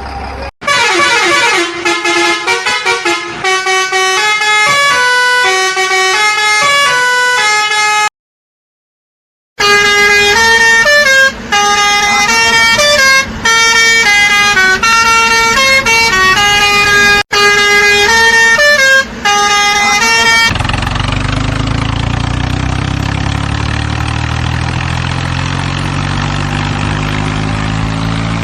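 A vehicle's musical horn plays a tune of stepped notes, twice, with a short silent break between. About twenty seconds in it gives way to a cartoon truck engine running, its pitch slowly climbing.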